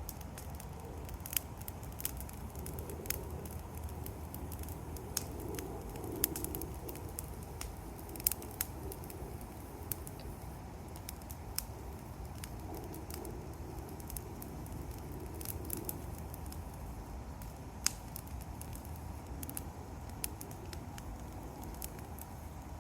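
Bonfire of blackberry vines and yard debris crackling, with irregular sharp pops over a steady low background.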